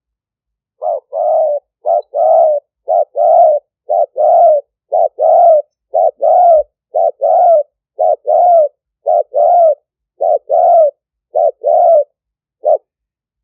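Spotted dove cooing: about a dozen repeated two-part coos, a short note followed by a longer one, roughly one a second, ending on a single short note. It is the call of a decoy dove used to lure wild spotted doves.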